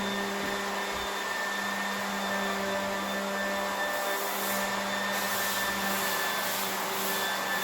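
A motor running steadily: a constant hum with a steady whine over a noisy rush, unchanging throughout.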